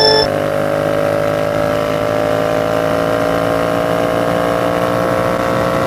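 2016 Yamaha FZ-07's parallel-twin engine through a Yoshimura R77 race exhaust, at full throttle in sixth gear. Its pitch rises slowly and steadily as the bike accelerates from 80 toward 100 mph.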